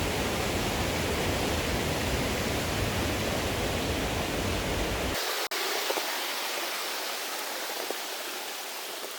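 Steady rushing water of a waterfall, full and deep. A little over five seconds in it cuts off abruptly and gives way to a thinner, hissier rush of stream water with no low rumble.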